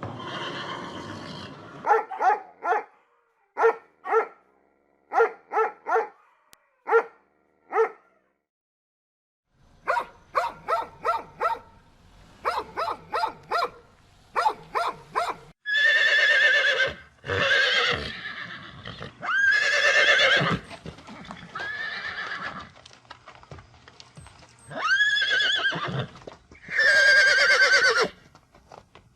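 Horses neighing and whinnying: groups of short, quick calls in the first half, then several long, wavering whinnies in the second half.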